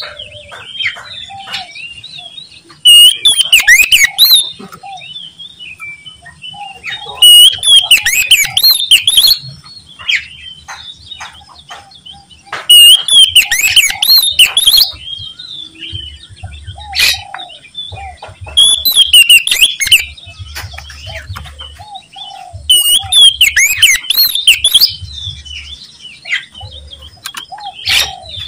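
Oriental magpie-robin singing loudly in full song: bursts of rapid warbled and whistled notes, each about two seconds long, repeat every four to five seconds, with softer chirps in between.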